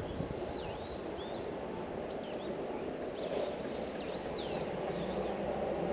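Small birds chirping outdoors, a scattering of thin, high, swooping notes, over a steady low rumble of distant traffic that grows a little louder near the end.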